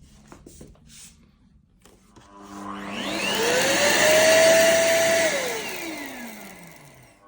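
ROIDMI X200 auto-empty dock's suction motor spinning up with a rising whine about two seconds in, running briefly at full speed, then winding down to a stop near the end. This is one of its emptying cycles, drawing dust out of the cordless vacuum's bin into the dock.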